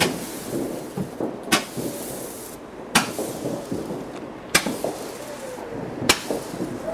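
Fireworks going off: five sharp bangs, about a second and a half apart, over steady background noise.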